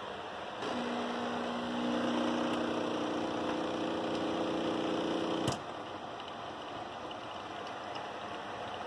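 Brewsly coffee machine's pump humming: the hum starts about half a second in, gets louder near two seconds, and cuts off with a sharp click after about five seconds, over a steady hiss.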